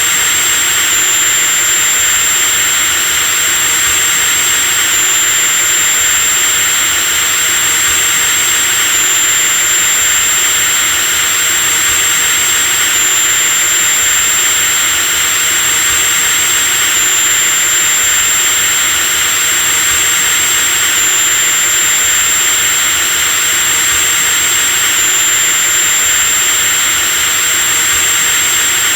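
Electric drill running steadily at constant speed, a continuous high-pitched motor whine over a hiss.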